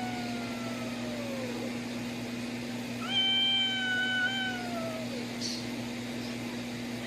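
A cat meowing: two long, drawn-out meows, each sliding down in pitch at the end. The second comes about three seconds in. A steady low hum runs underneath.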